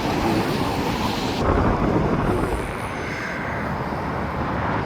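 Rumbling vehicle noise with wind buffeting the microphone; the high hiss drops away about a second and a half in and the rumble eases a little.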